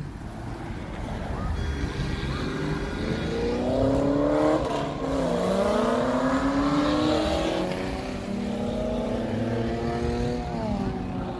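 Car engines of traffic passing close by. One engine note climbs, drops about halfway through, climbs again and then holds steady, as a car accelerates past.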